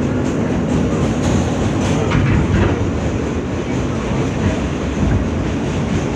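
Inside an R160 subway car running between stations: a steady rumble of wheels on the rails, with a few brief clicks about two seconds in.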